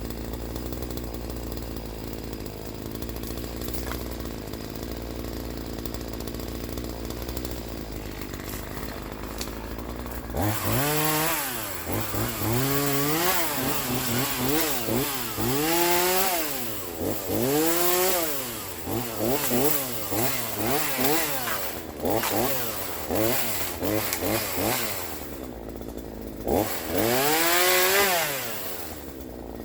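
Troy-Bilt TB4218 42cc two-stroke chainsaw idling steadily, then from about ten seconds in revved up and down over and over, its pitch rising and falling with each throttle squeeze.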